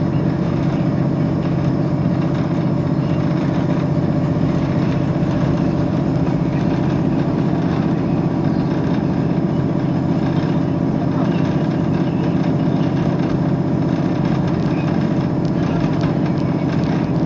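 Diesel train heard from on board: a steady low engine drone with a constant hum, even in level throughout.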